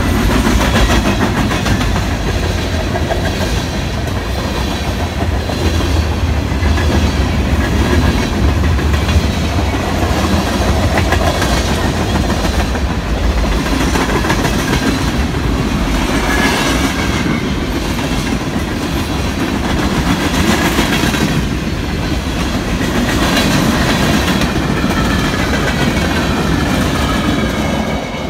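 Freight train cars rolling past at close range: a steady, loud rumble with the wheels clattering rhythmically over the rail joints.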